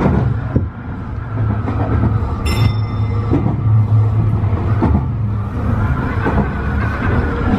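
Tobu 50090-series electric train running along the line: a steady rumble with short clicks recurring every second or so, and a brief high tone about two and a half seconds in.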